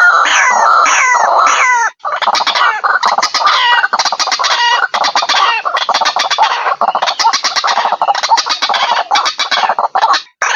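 White-breasted waterhen (ruak-ruak) calling: a run of repeated falling calls, a short break about two seconds in, then a long stretch of rapid, overlapping calls that break off near the end.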